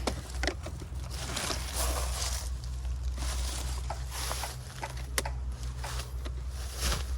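Dry leaves and sticks rustling and snapping as they are handled, with sharp cracks at the start and about five seconds in, over a steady low hum.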